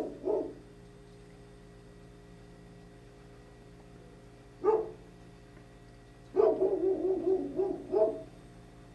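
A dog barking in short bouts: a bark just after the start, a single bark at about five seconds, then a quick run of several barks near the end.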